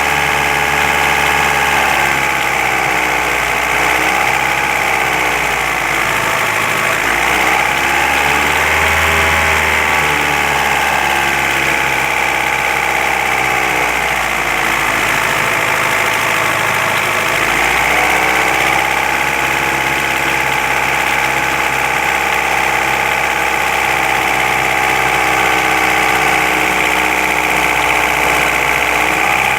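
An engine running at idle, its speed rising and easing back twice. It is being listened to for a knock whose source is unknown.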